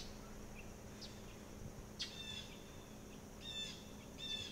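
Wild birds chirping faintly outdoors in short calls, some of them quick stuttered series, about one every second, over a faint steady low hum.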